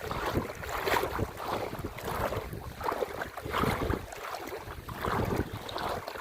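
Wind gusting on the microphone over sea water splashing and sloshing, in uneven surges.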